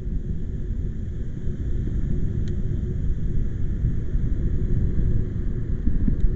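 Wind buffeting the microphone: a loud, unsteady low rumble that rises and falls in gusts, with a faint hiss above it and a small tick about two and a half seconds in.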